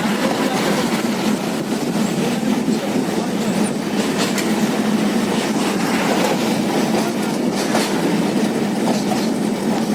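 Moving train heard from on board: a steady rumble of wheels on the rails, with a few faint clicks from the wheels over rail joints.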